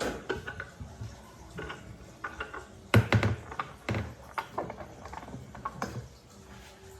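Irregular clicks and knocks of hard objects being handled, with a louder cluster about three seconds in.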